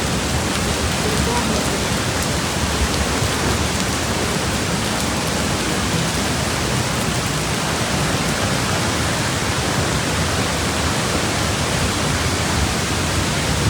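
Steady, even rush of water from heavy monsoon rain and floodwater.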